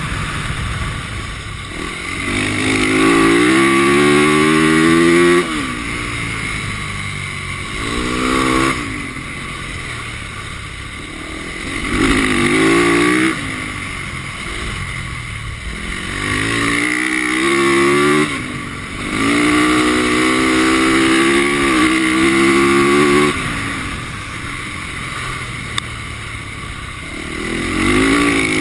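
450cc four-stroke single-cylinder dirt bike engine revving up and backing off again and again, climbing in pitch every few seconds as it accelerates around an ice flat track. A steady hiss runs underneath.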